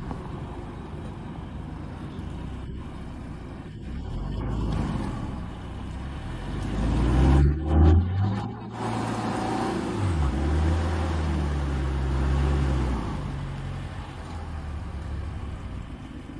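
Mercedes-Benz GLK260 engine working hard under load as the SUV climbs through deep mud. The revs rise about seven seconds in, dip twice, are held high for a few seconds and then ease off.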